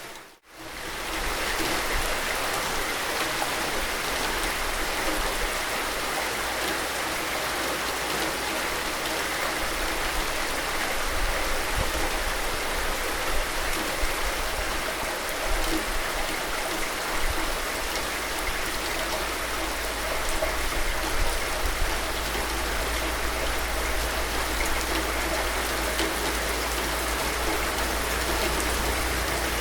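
Steady rain falling, an even hiss with scattered drop ticks. Just after the start the sound fades out for a split second and comes straight back.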